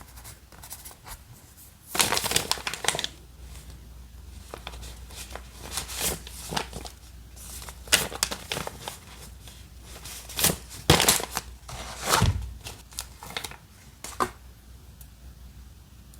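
Paper and sticker materials being handled for journal decorating: irregular rustling and crinkling with a few sharp taps, busiest about two seconds in and again around eleven to twelve seconds.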